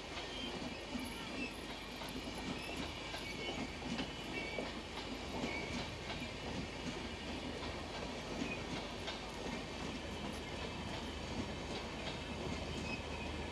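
Intercity express train's LHB coaches rolling by on the rails: a steady rolling rumble with scattered light clicks from the wheels.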